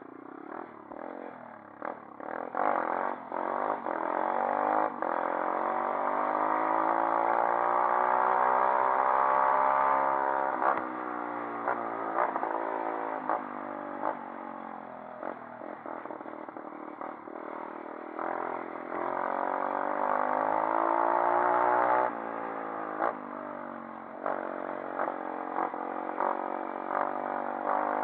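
A 140cc pit bike's single-cylinder engine running under load as it is ridden. Its pitch climbs slowly through the gears to a high, steady note, eases off, then climbs again and drops suddenly about three-quarters of the way through. Rattles and knocks come from the bike throughout.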